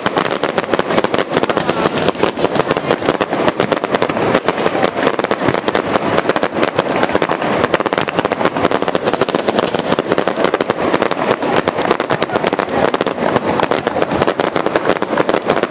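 Aerial fireworks going off close overhead in a dense, unbroken barrage of rapid cracks and bangs.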